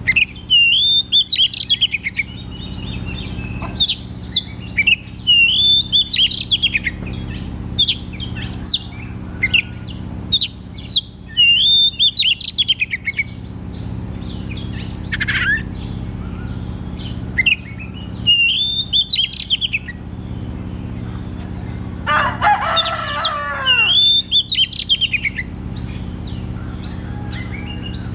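Oriental magpie-robin (kacer) singing loudly: repeated warbled whistle phrases every few seconds, with sharp short notes between them, over a steady low hum. About two-thirds of the way through, a denser call falls steeply in pitch.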